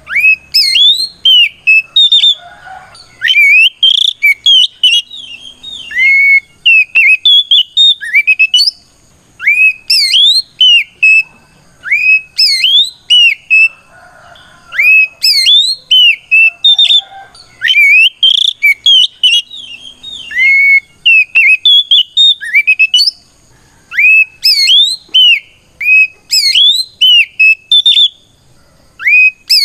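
Oriental magpie-robin (kacer) singing its loud 'ngeplong' song: strings of clear, sliding whistled notes in rapid bursts, broken by short pauses. It is the song a male uses to call out a rival.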